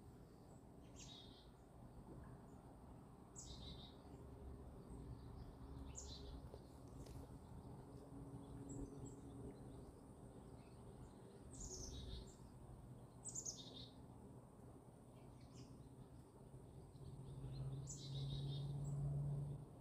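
Wild birds calling over faint steady outdoor background noise: a short, high, downslurred call repeated every few seconds, about seven times. Near the end a low hum swells up and cuts off.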